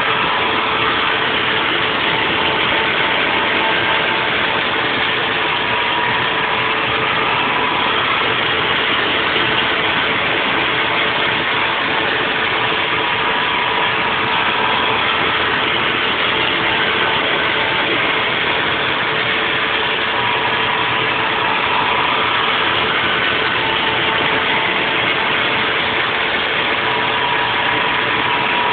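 Haas VF4 CNC vertical mill running a 3D machining pass on a block: a steady machine and cutting noise with a constant hum and a higher whine that comes and goes.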